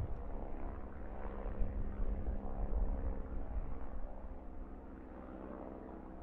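Steady low rumble of a distant engine with a faint steady hum, growing quieter in the second half.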